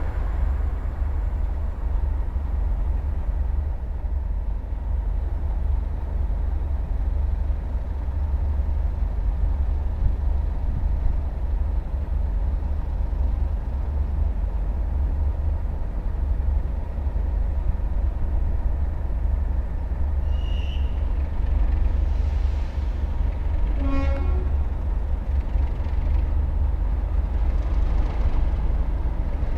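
Steady low rumble of a train at a railway station, with a brief horn toot about 24 seconds in.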